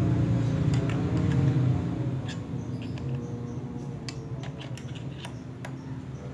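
A low steady hum that fades over the first couple of seconds, with a handful of light, separate clicks and ticks scattered through the rest.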